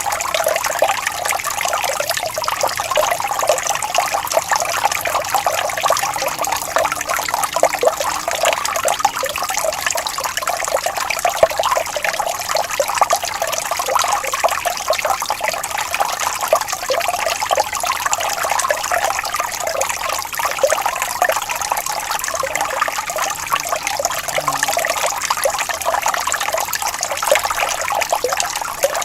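Small stream of water trickling and babbling over stones, a steady bubbling flow.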